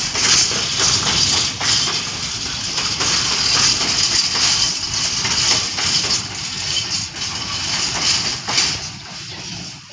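Container freight wagons rolling slowly along the yard tracks: a steady rattle and rumble of wheels on rail with scattered knocks. It eases off near the end.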